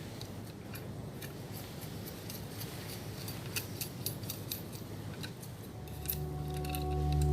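Irregular clicks and scrapes of a digging tool working through soil, tunnelling between two holes for a trench fire. About six seconds in, a steady chord of held background music fades in and becomes the loudest sound.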